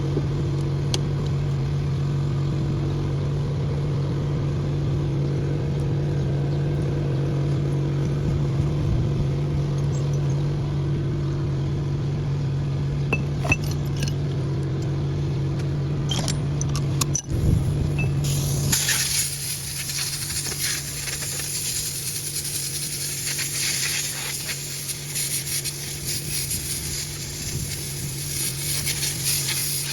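A machine running with a steady low hum, with a few light metal clinks; about two-thirds of the way through, a steady high hiss comes in and the hum drops back.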